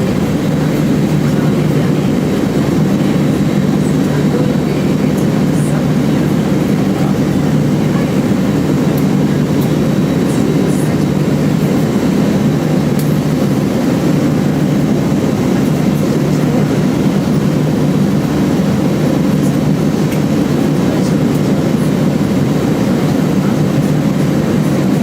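Steady low rumble of an Airbus A320 cabin, the engines and airflow heard from inside as an even drone.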